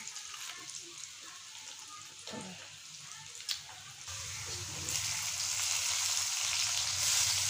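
Potatoes frying in hot oil in a kadai, a steady sizzle that grows louder about four seconds in as sliced green capsicum goes into the pan. There is one small click in the middle.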